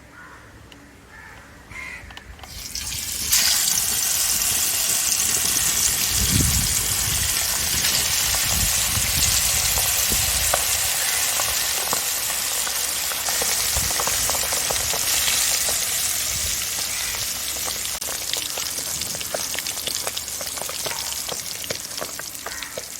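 Masala-marinated chicken sausages going into hot oil in a pan. A loud sizzle starts suddenly about three seconds in and keeps going with scattered crackling, easing slightly toward the end.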